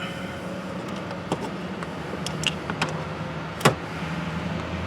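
Hand tools and plastic trim being worked on a car door panel: a few light clicks, then one sharper snap about three and a half seconds in, over a steady low hum.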